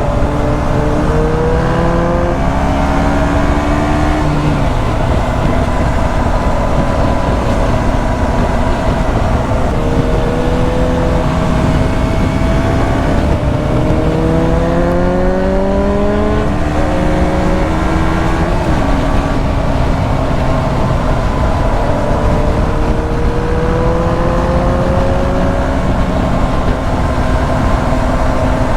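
KTM 125 Duke's single-cylinder four-stroke engine pulling under way, its pitch climbing through each gear and dropping sharply at the upshifts, about four seconds, sixteen seconds and nineteen seconds in, under a steady rush of wind noise.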